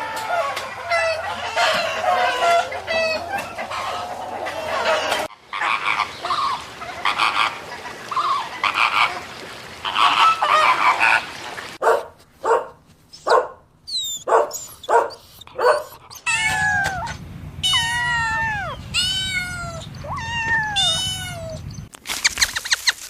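Farm poultry calling in several short clips cut one after another, with a run of repeated falling calls in the last several seconds.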